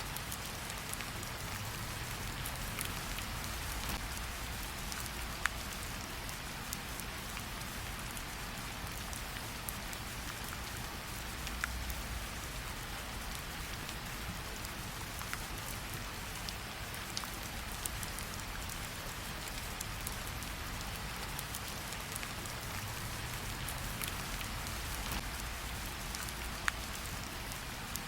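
Steady rain falling, with a low rumble underneath and a few sharp crackles from a wood fire scattered through it.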